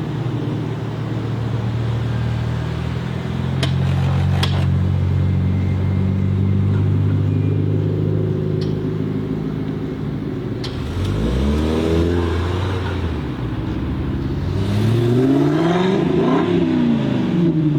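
High-performance car engine running steadily at low revs, then revving up with a rising pitch about eleven seconds in and again near the end, where the note rises and falls.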